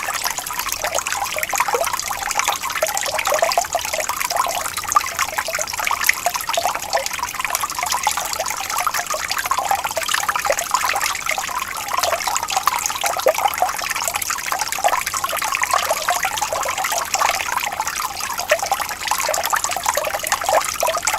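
Small stream of water trickling and babbling over stones, a steady flow with many small splashes.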